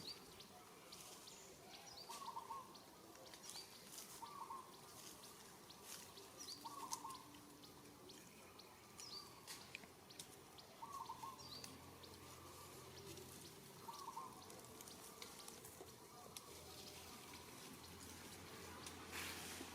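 Faint outdoor ambience with a bird giving the same short call again and again, roughly every two to four seconds, each with a brief high chirp.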